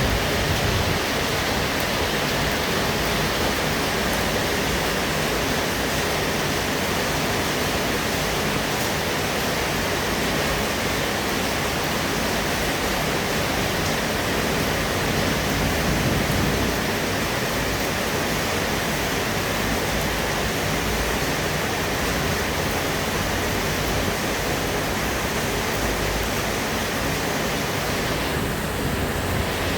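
Steady rainfall, a dense even hiss of rain that does not let up.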